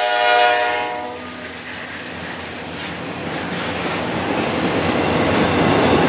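Locomotive horn holding a steady multi-note chord, cutting off about a second in; then the train's rumble and wheel noise grow steadily louder as it approaches.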